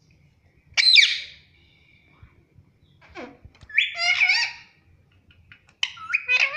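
Indian ringneck parakeet vocalising: one loud, sharp squawk about a second in, then two longer warbling calls with several overtones, one near the middle and one near the end.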